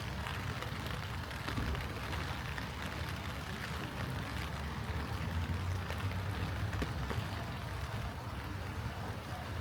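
Light rain falling steadily, a close patter of many small drops, over a low steady rumble.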